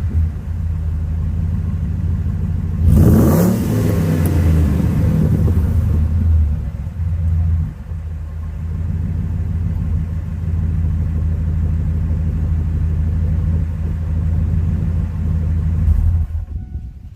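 2000 Ford F-150's 5.4-litre 32-valve V8 running through a custom exhaust with a Magnaflow X-pipe and Flowmaster FlowFX mufflers: a deep, steady rumble at idle, with one quick blip of the throttle about three seconds in that rises and drops straight back. The note fades out near the end.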